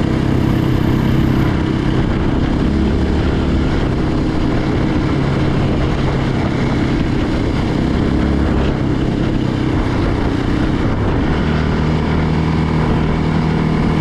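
Yamaha Raptor 700R ATV's single-cylinder four-stroke engine running steadily at cruising speed, its engine note shifting about eleven seconds in.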